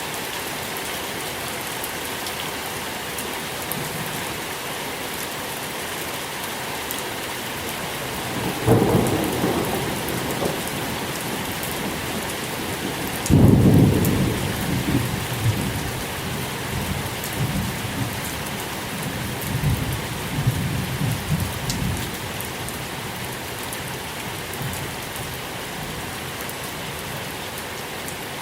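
Steady rain falling, with distant thunder: a low roll about a third of the way in, then a louder clap about halfway that rumbles on unevenly for several seconds before fading back into the rain.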